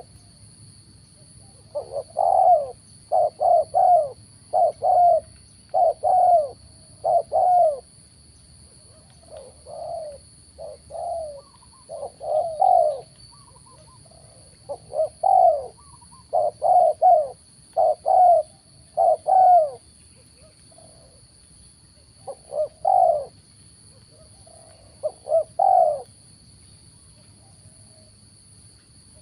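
Spotted doves cooing: a long series of short coo notes in repeated phrases with brief pauses between them, fading to a few faint notes near the end.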